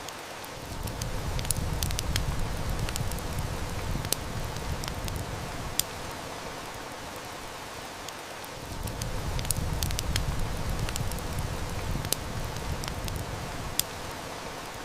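Rain and wood-fire ambience: steady rain hiss with scattered sharp snaps of a crackling wood fire. A low rumble swells up twice, each lasting about five seconds, first about a second in and again about halfway through.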